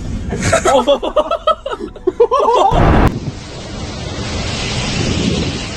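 Excited voices with laughter-like exclamations for the first two and a half seconds, ending in a short loud rush. After an abrupt cut about three seconds in, a steady rushing noise continues.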